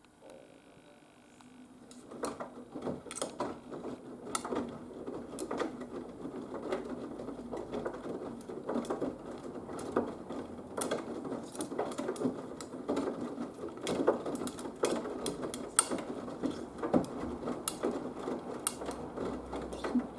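Haier HW120 front-loading washing machine's drum starting to turn about two seconds in, then tumbling the wet laundry with a steady churning noise and frequent irregular clicks and knocks.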